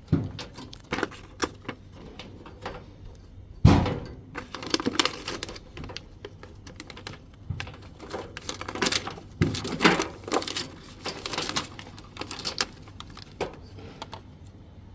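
Irregular clicks, knocks and plastic rattling of wiring connectors being handled and pushed onto a washing machine's control board, with the loudest knock about four seconds in.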